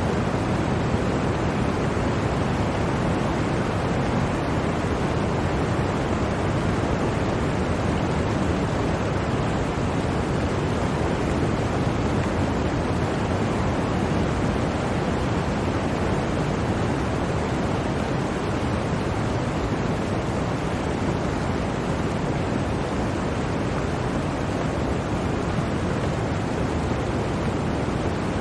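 Steady, even roar of blizzard wind, with no gusts or separate sounds standing out.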